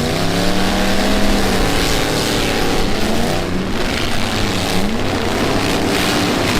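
Demolition derby pickup truck engines revving, their pitch dropping and climbing again several times as the trucks back up and charge, over a steady loud roar of other engines.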